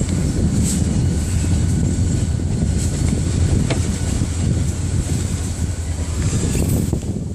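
Freight cars of a Ferromex train rolling past on the track: a steady low rumble of wheels on rails, with a few faint clicks.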